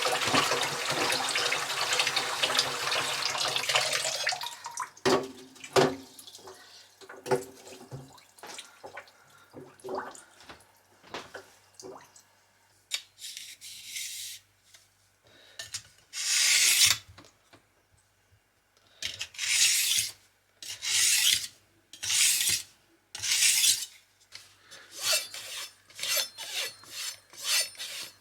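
Knife being sharpened: rasping strokes of a blade on a stone, spaced out at first and quicker near the end. Before them a steady rush stops about four seconds in, followed by scattered light clicks.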